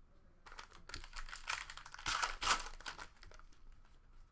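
Trading-card pack wrapper crinkling as it is torn open and crumpled, loudest about two seconds in.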